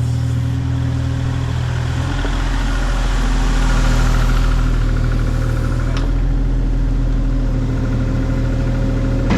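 Diesel engine of a small excavator running steadily under hydraulic work. Its note deepens and gets heavier about two seconds in as the machine takes load, with a faint click about six seconds in.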